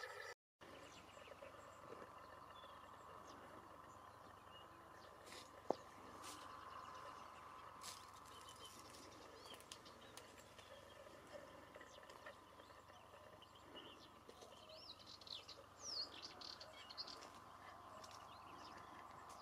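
Quiet open-air ambience with faint birds chirping, their quick high twitters clustering late on. There is a single sharp click about six seconds in, and the sound drops out completely for a moment at the very start.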